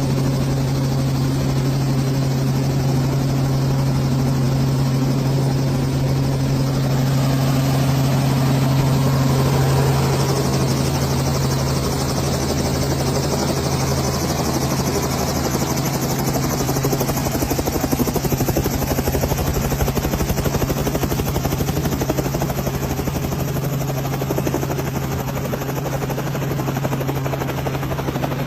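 Robinson R44 helicopter's six-cylinder Lycoming piston engine and rotor running steadily at high revs on the ground, with the governor switched on to hold full rotor rpm. A constant low drone whose higher end brightens about ten seconds in.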